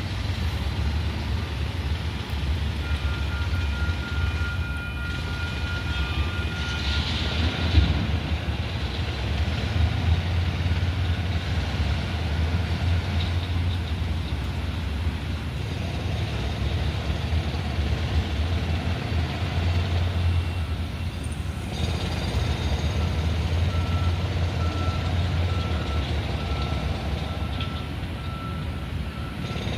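Light rail train's steady low rumble and hum, with a high beeping tone that sounds for a few seconds early on and again, broken up, near the end.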